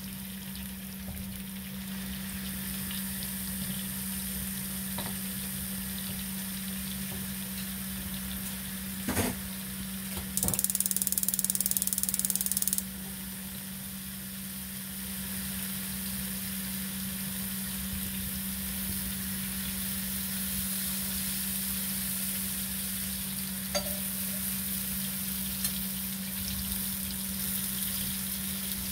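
White button mushrooms sizzling in oil on a hot griddle pan, a steady hiss over a low, steady hum. A couple of knocks come just before the middle, followed by a louder hiss for about two seconds.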